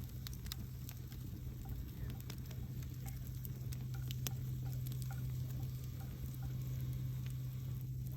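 Wood campfire burning, with irregular sharp crackles and pops from the burning wood over a steady low rumble.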